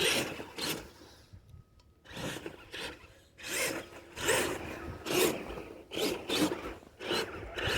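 Radio-controlled mega truck (Redcat Everest 10) churning through snow: scratchy bursts of tyres digging in as the electric motor is throttled on and off, in irregular pulses with a short lull about a second in.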